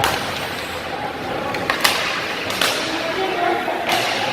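Ice hockey play in an indoor rink: four sharp cracks of sticks and puck, at the start, about two seconds in, a moment later and near the end, over the steady hubbub of the arena.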